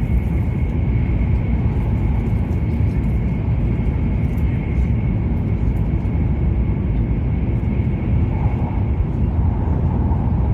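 E7-series Shinkansen heard from inside the passenger cabin while running at speed: a steady, loud low rumble of running noise with a faint steady high whine.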